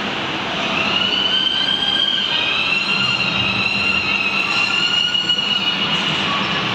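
Steady rushing vehicle noise with a high-pitched squeal that comes in about a second in, shifts slightly in pitch, and fades near the end.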